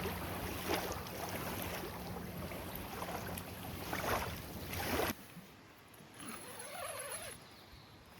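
Lakeside water and wind noise, a steady rush with a few soft knocks, cutting off abruptly about five seconds in to a much quieter background.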